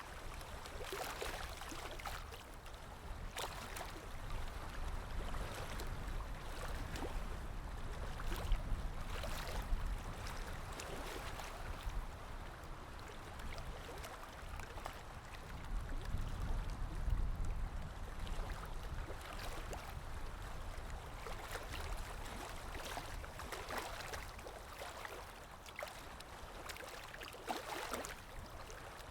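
Water lapping and splashing against a shore or hull, with wind rumbling low; the wind swells and eases in slow gusts.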